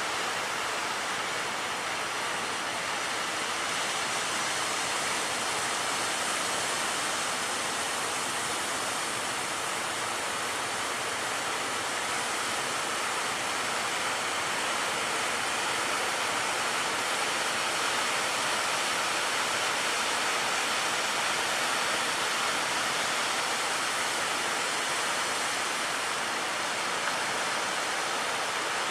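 Steady, even rushing of a rough sea and storm wind, with no single wave or gust standing out.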